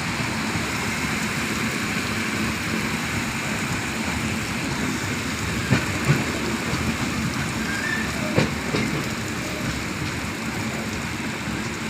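Steady rush of rain mixed with the low rumble of a moving vehicle, with a few short knocks about six and eight seconds in.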